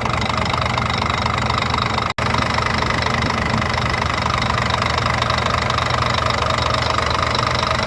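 Scania truck diesel engine idling steadily and smoothly, its number 3 injector's stuck solenoid valve just replaced. There is a momentary break in the sound about two seconds in.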